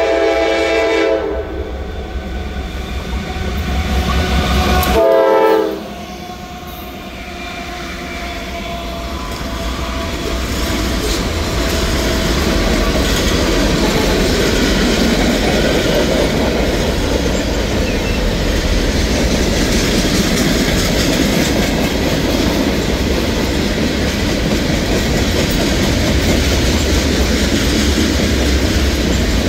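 Norfolk Southern freight train's locomotive horn sounding and cutting off about a second in. The train's rumble then builds, and a short horn blast comes about five seconds in. After that, a long string of tank cars and covered hoppers rolls past with steady wheel clickety-clack on the rails.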